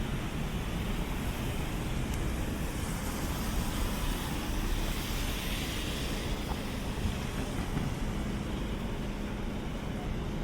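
City street traffic: a steady rumble of vehicles with tyre hiss that swells and fades in the middle as a vehicle passes.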